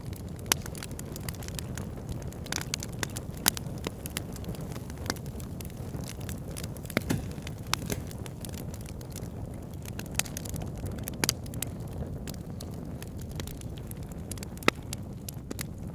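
Wood fire burning in a fireplace: a steady low rumble of flames with irregular crackles and sharp pops from the burning logs, a few of them louder.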